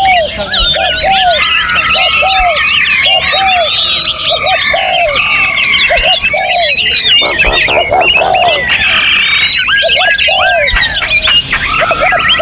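Dense chorus of many songbirds singing at once, overlapping quick whistles and trills. Under it a lower, arched note repeats about twice a second.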